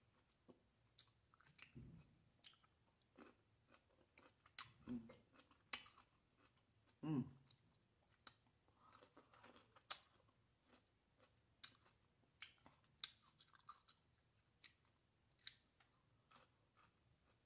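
Faint close-miked chewing of green grapes, with bites and scattered short wet mouth clicks.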